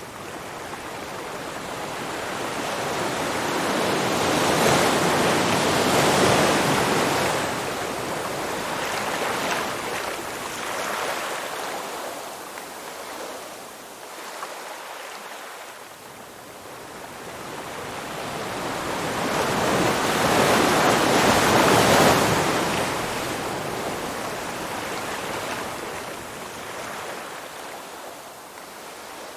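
Sea waves washing onto a shore: two slow swells of surf, each building for several seconds and then ebbing, the first peaking about a fifth of the way in and the second about three quarters of the way through.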